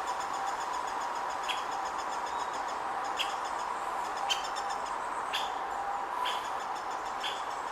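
Great spotted woodpecker calling: short sharp notes repeated about once a second, with faint high rapid ticking and a steady background hum.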